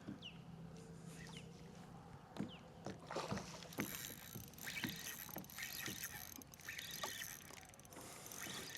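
Water splashing and small knocks around a kayak while a hooked fish is fought, irregular and fairly quiet.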